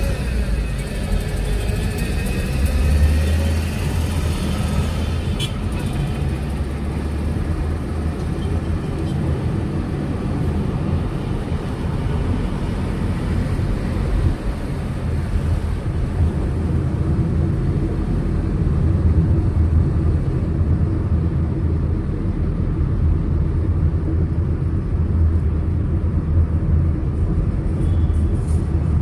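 Car driving on a city road: a steady low rumble of engine and tyre noise.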